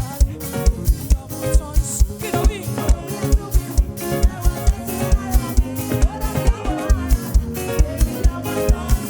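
Live band playing upbeat African gospel praise music, driven by a steady kick drum at about two to three beats a second.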